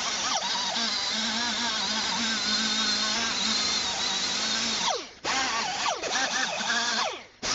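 Power drill running steadily while cleaning up a wheel hub, its pitch wavering slightly under load. It is let off twice in the second half, each time winding down with a falling whine before starting again.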